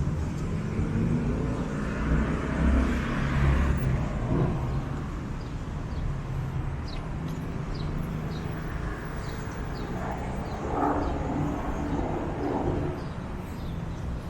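Downtown city traffic: cars running past with a low rumble, heaviest in the first few seconds, and a few faint high chirps in the middle.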